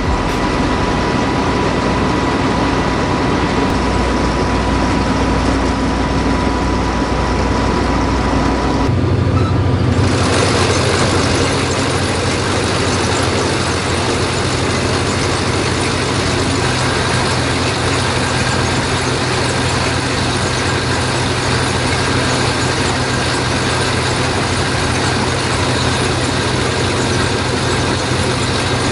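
Claas Lexion 750 Terra Trac combine harvester's diesel engine running steadily. About nine seconds in the sound changes abruptly: the low hum rises in pitch and the running grows fuller and noisier.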